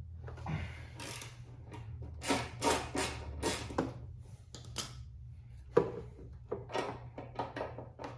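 A wrench working a bolt loose: irregular metallic clicks, knocks and short scraping strokes.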